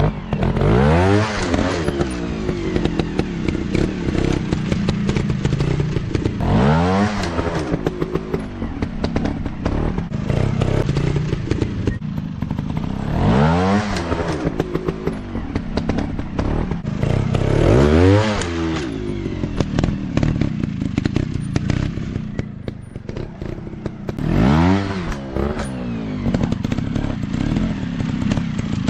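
Dirt bike engine running and revving, its pitch climbing and dropping again about five times, with steadier running in between.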